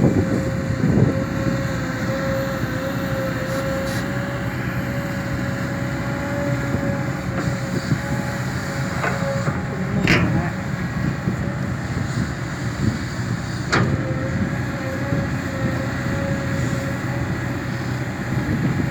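Kobelco SK200 excavator running steadily at working revs, with a constant high whine over the engine and a few sharp knocks about nine, ten and fourteen seconds in.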